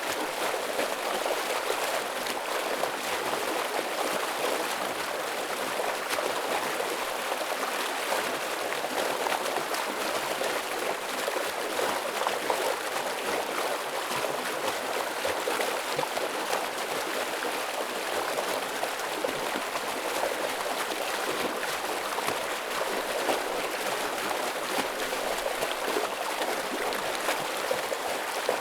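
Heavy, fast-flowing stream rushing steadily, a dense unbroken wash of water with small splashes and gurgles flickering through it.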